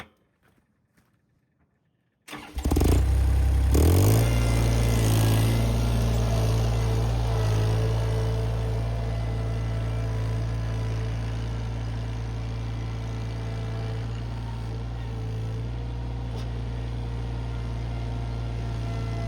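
A mini skid steer's engine starts about two seconds in, picks up speed a second later, then runs steadily.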